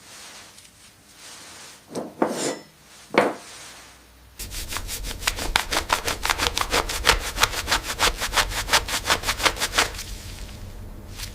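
Hand rubbing on antique silverware: a couple of short scrapes, then about six seconds of fast back-and-forth strokes, roughly seven a second.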